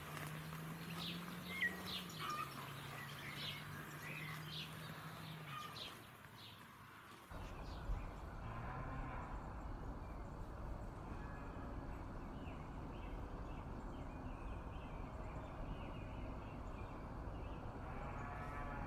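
A cow mooing in one long, low call of about five seconds, its pitch stepping down partway through, with birds chirping. About seven seconds in, this cuts abruptly to a steady noisy background from a barn of cattle feeding at a feed barrier.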